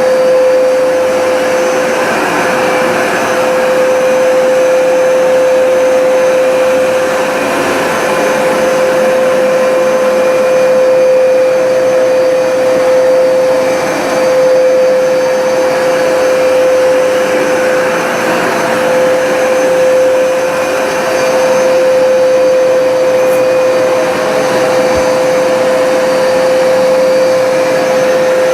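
Hoover Smartwash automatic carpet cleaner running in wash mode with a steady motor hum and whine, its loudness swelling and easing gently as it works the rug.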